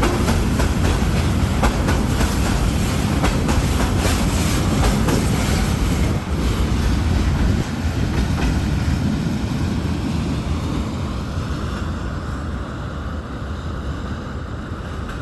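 Freight train passing: wheels clatter over the rail joints for about the first six seconds, then a steady rumble slowly fades as the train draws away.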